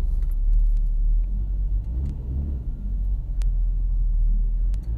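Car engines idling with a low, steady rumble, heard from inside the cabin of a car sitting staged at a drag strip start line.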